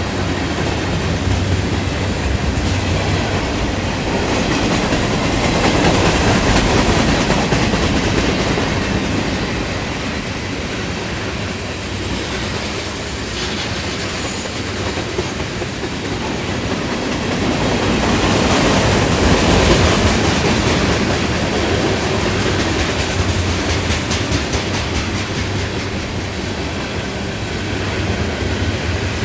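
A Norfolk Southern freight train's cars rolling past, with a steady clatter of wheels over the rail joints. It swells louder twice.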